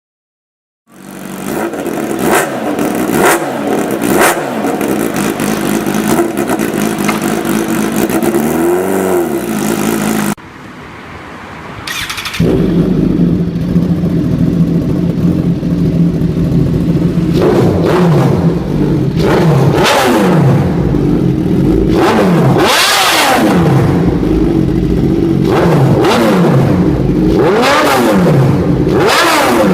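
Suzuki GSX-R1000 motorcycle's inline-four engine idling and revved in repeated quick throttle blips, each a sharp rise and fall in pitch, heard through its exhaust. It starts abruptly about a second in, drops suddenly to a quieter level around ten seconds in, and comes back louder about two seconds later with more blips.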